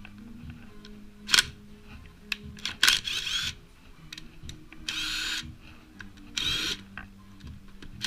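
A power driver spinning in several short bursts of about half a second each, with two sharp clicks in between, as engine case bolts are run out.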